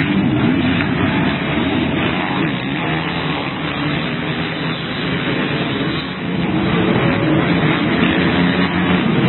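Several motocross bikes racing, their engines revving up and down together. The overall sound eases briefly about six seconds in, then builds again.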